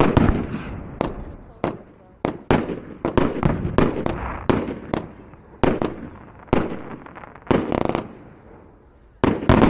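Aerial fireworks going off in a rapid volley of sharp bangs, about one to two a second, each followed by a rumbling echo. The bangs pause briefly near the end, then one more loud bang follows.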